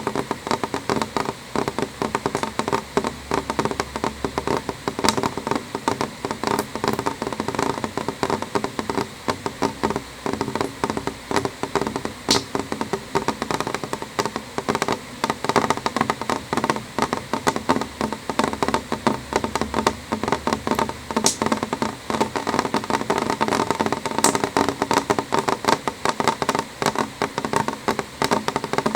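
Rain falling on a window pane: a dense, irregular stream of quick drop taps on the glass, with a few sharper single ticks standing out now and then.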